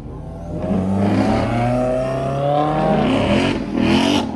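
Car engine accelerating hard, its pitch climbing for about two seconds, dropping at a gear shift about three seconds in, then climbing again.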